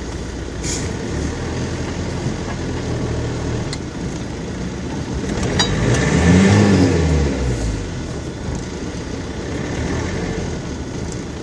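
Off-road vehicle's engine running, then revving up to a loud peak about six to seven seconds in and dropping back, on a second attempt at getting through the mud.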